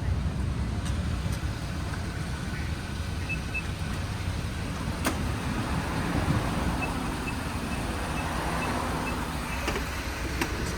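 Car engine running with a steady low rumble. A few faint, short high beeps and light clicks sound over it in the middle.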